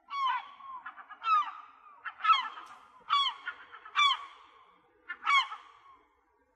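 Gull calling: about six loud, downward-falling calls in a row, with quick short notes between them, in the gull's laughing long call.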